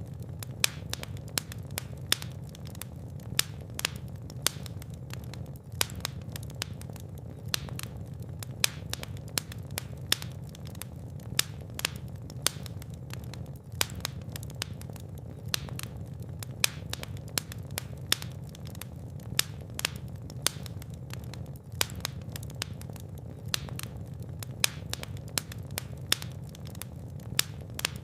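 Fire in a fireplace crackling: frequent sharp, irregular pops over a steady low rumble of the flames.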